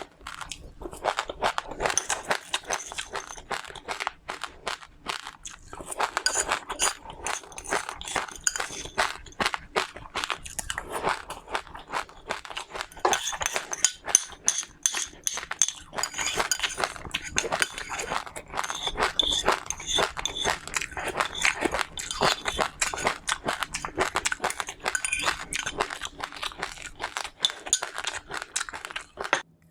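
Close-up chewing of crunchy seeds: dense, irregular crunching and crackling bites, with a brief lull about five seconds in.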